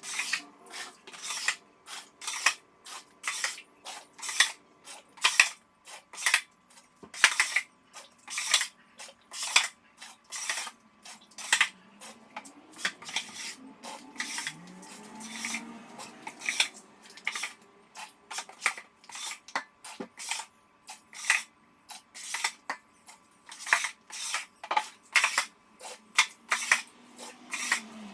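A steady run of sharp, irregular clicks and taps, about two to three a second.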